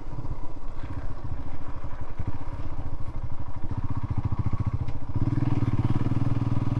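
Royal Enfield Himalayan's single-cylinder engine running at low revs under the rider, its separate exhaust pulses plain to hear. About five seconds in, the engine note turns louder and steadier.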